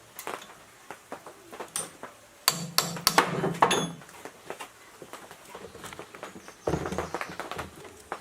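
Metal parts knocking and clinking as they are handled, in two bursts: the first has several sharp strikes with a brief metallic ring, and the second is duller.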